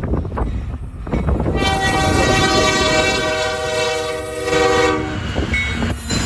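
Diesel locomotive air horn sounding one long blast about a second and a half in, lasting about three seconds, with a deeper note joining partway through, over the low rumble of a passing train.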